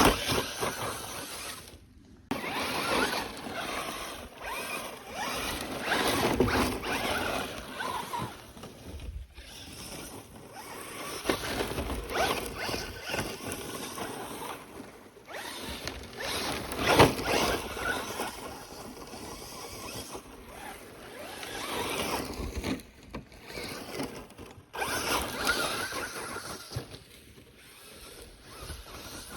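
Traxxas Slash 4x4 Ultimate RC truck driving in bursts: its electric drivetrain and tyres on loose ground surge and fade every few seconds, with a few sharper knocks.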